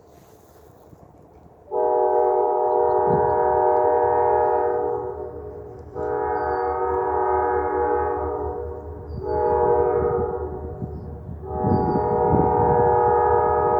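Great Lakes Central diesel locomotive's air horn sounding a chord of several notes in four blasts (long, long, short, long), the standard signal for a grade crossing, over a low engine rumble. The horn starts about two seconds in and the last blast is still held at the end.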